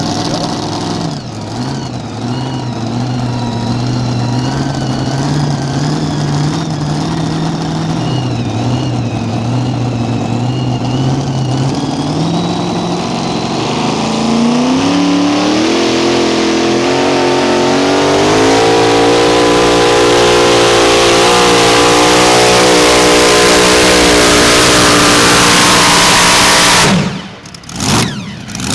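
Mini rod pulling tractor's engine under load, its pitch wavering at first, then revs climbing over a few seconds and holding high at full throttle. Near the end the engine drops off abruptly, followed by a few short blips of throttle.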